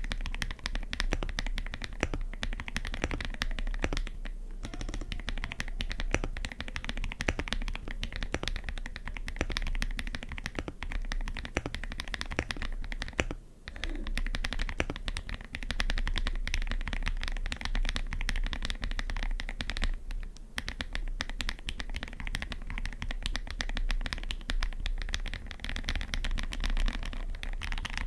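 Mechanical keyboard fitted with KTT Strawberry linear switches being typed on continuously, a dense run of key clacks with brief pauses about 4, 13 and 20 seconds in.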